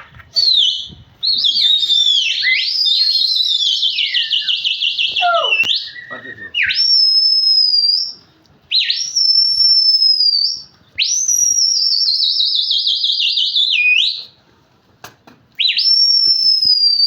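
Loud, shrill whistling in about six phrases: long high notes that swoop up and then slowly fall, several with a fast warble through them, separated by short pauses.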